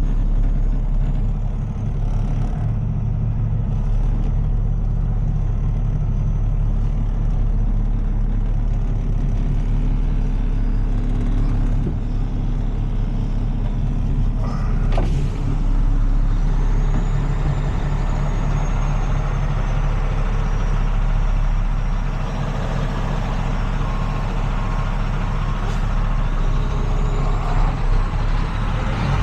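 Heavy-duty tow truck's diesel engine running steadily at low speed while slowly backing a towed truck, with one brief sharp sound about halfway through.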